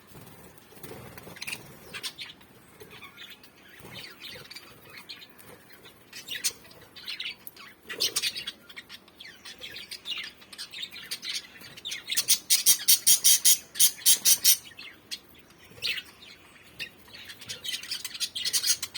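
Pet lovebirds chirping and squawking in short, scattered calls, with a loud run of rapid calls, several a second, about twelve seconds in.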